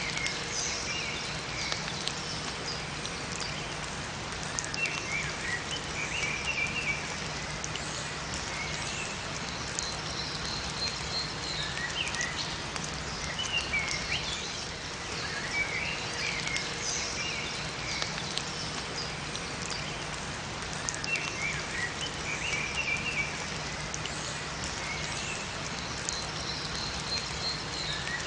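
Steady rain falling in a forest, with small songbirds chirping in short bursts every few seconds.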